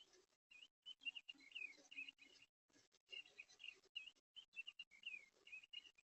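Faint, quick series of short chirps and slurred warbling notes from a small songbird. They come over soft scratching and rustling, and the sound keeps cutting in and out.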